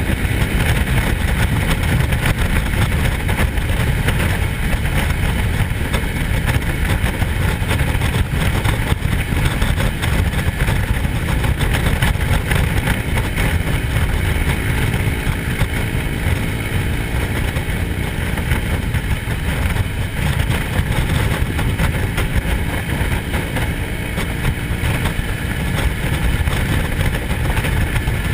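Motorcycle running steadily on the road, its engine under a constant heavy low rumble of road and wind noise.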